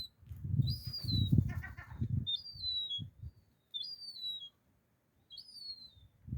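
Young gull's high, thin whistled calls, five in a row and each falling in pitch at the end: the begging calls of a chick being fed. Low fluttering thuds run under the first two seconds or so.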